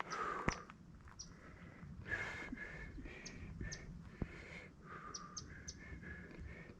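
Wild birds chirping and calling: a string of short, high chirps over repeated held calls, with a few faint clicks.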